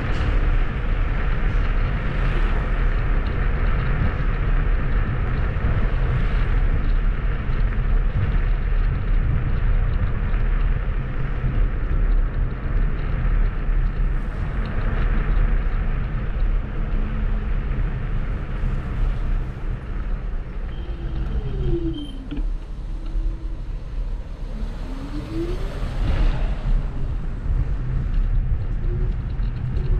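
Kugoo G2 Max electric scooter riding along a path: steady rumble of wind and tyres with a low hum. About two-thirds of the way through it goes quieter and a whine slides down in pitch, then climbs back up as the scooter slows and speeds up again.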